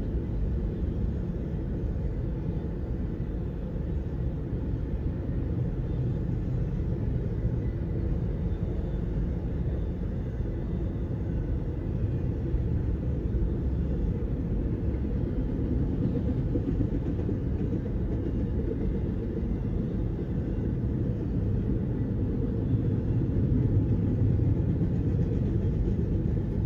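Union Pacific double-stack container freight train rolling past: a steady low rumble of railcar wheels on the rails, a little louder about three-quarters of the way through as the last cars pass.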